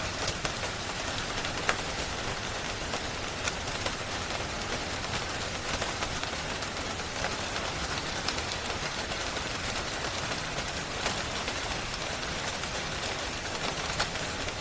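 Steady rain falling, a dense even hiss, with scattered sharp ticks and pops through it.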